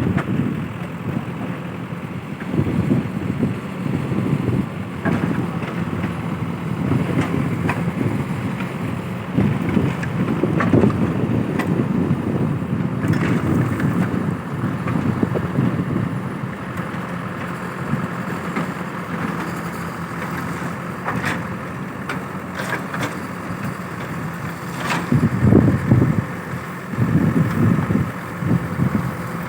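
A truck's engine running with a steady low rumble that swells and eases, with wind buffeting the microphone and a few faint clicks and knocks.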